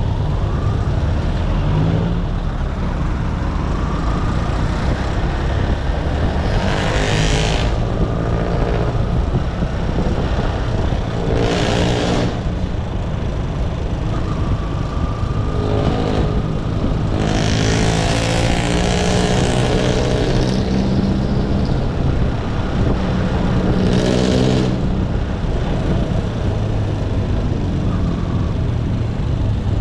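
Motorcycle engine running under way, with steady road and wind noise, as other vehicles pass close by about five times, each rising and fading over a couple of seconds.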